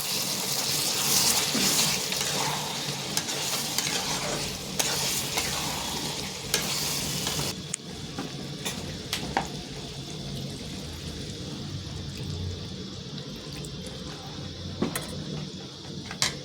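Chicken and masala frying and sizzling in a pan while being stirred. The loud sizzle drops off sharply about halfway through, leaving a quieter sizzle with scattered clicks and scrapes of the spoon against the pan.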